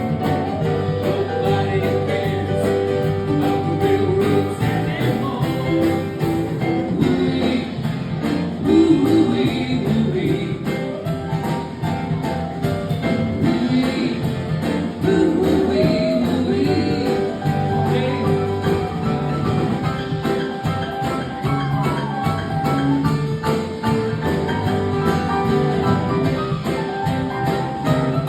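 Live acoustic song: guitar with a voice singing.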